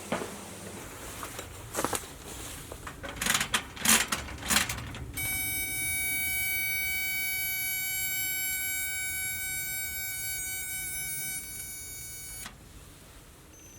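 A few sharp knocks and clatters, then a steady, unwavering electronic-sounding tone held for about seven seconds that cuts off suddenly.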